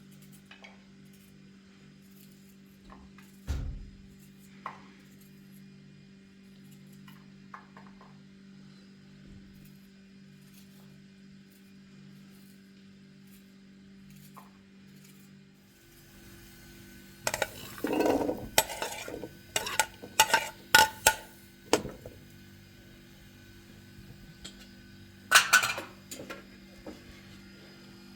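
Clinks and clatters of hard objects being handled, like dishes or utensils, over a steady low hum. There is a single knock near the start, a dense run of knocks and clinks about two-thirds of the way through, and another short burst near the end.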